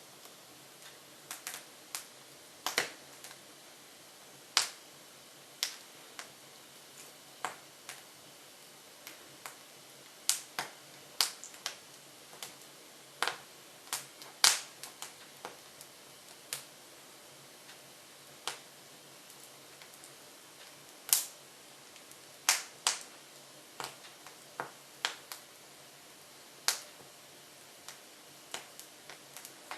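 Hardwood logs crackling in a Jøtul F500 wood stove burning with its front doors open: irregular sharp pops and snaps, sometimes several close together, some much louder than others.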